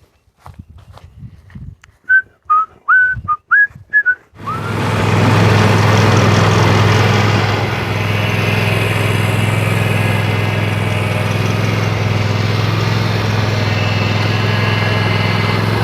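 A small engine starts suddenly about four seconds in and then runs steadily with a low hum, easing slightly a few seconds later. Before it catches there are faint clicks and a quick series of short high chirps.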